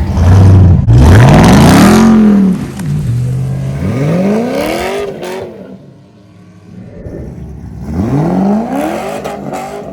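A car engine idling and then revved hard three times, the pitch climbing and falling back each time. The first rev is the loudest.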